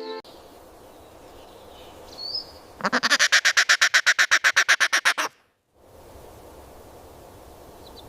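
A bird's harsh call: a rapid run of about twenty quacking notes, some eight a second, lasting about two and a half seconds, over faint outdoor background hiss, with a single brief high chirp shortly before.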